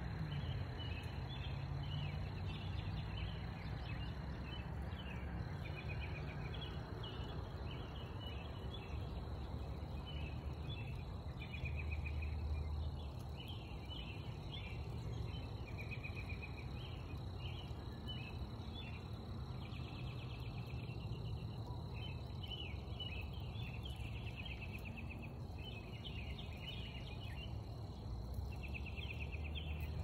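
Songbirds chirping and trilling in many short phrases, over a low steady rumble. The emerging cicada itself makes no sound.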